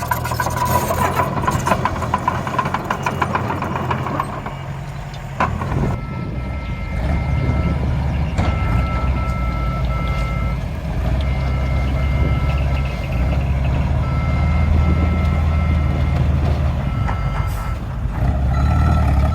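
Miniature dump truck working with a steady low engine hum. For the first few seconds there is a rattle with a whine. From about a third of the way in, a reversing alarm beeps over and over in short two-tone pulses.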